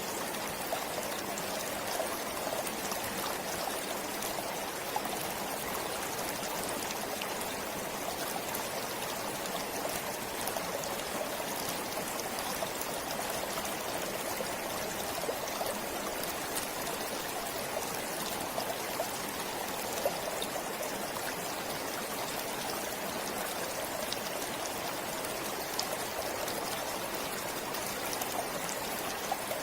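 A forest stream flowing and trickling steadily, with small splashes scattered through it.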